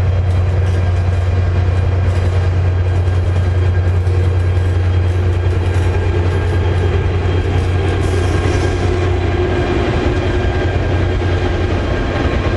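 Locomotive running hard close by: a loud, steady, deep drone with steady whining tones above it, and a few sharp clicks in the first couple of seconds.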